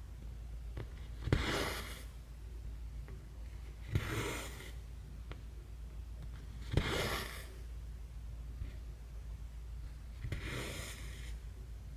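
Embroidery floss being drawn through stamped 11-count cross-stitch fabric: four short swishes about three seconds apart, each starting with a click.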